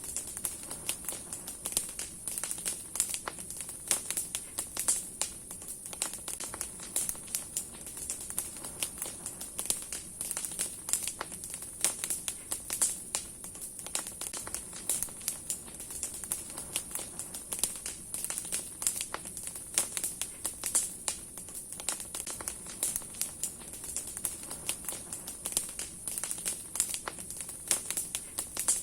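Large wood bonfire crackling steadily, with dense irregular pops and snaps of burning branches over a steady hiss of flame.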